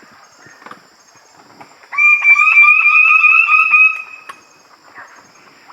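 A bird calling loudly: a rapid series of up-swept notes lasting about two seconds, drifting slightly higher in pitch, over a steady high-pitched insect drone.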